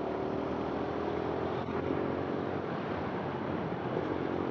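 A 150 cc motorcycle engine running at a steady pace while being ridden, its pitch dipping slightly in the first second, with rushing wind noise.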